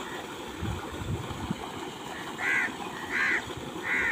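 A bird calling three times in the second half, short calls about 0.7 s apart, over the steady rush of water pouring from a pipe into the pond.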